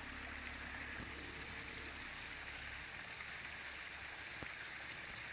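Creek running high after heavy rain, its water rushing with a steady even noise.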